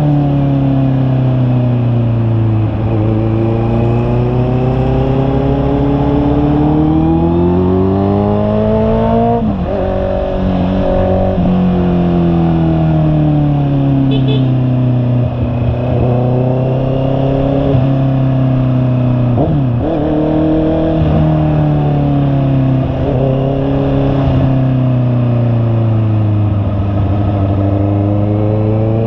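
Honda CB650R's 649 cc inline-four engine under way, its pitch climbing as it accelerates and sinking back several times, with sudden drops in revs about a third of the way in and again around two-thirds through.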